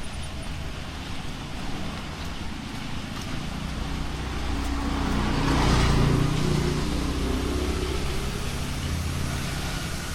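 A motor vehicle driving past on a road: its engine and tyre noise swell to a peak about six seconds in, then fade away.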